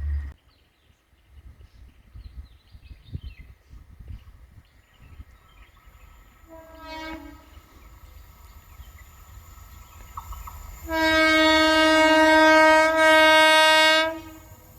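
Indian Railways locomotive horn sounding: a short blast about halfway through, then a long blast of about three seconds, with a brief dip near its end.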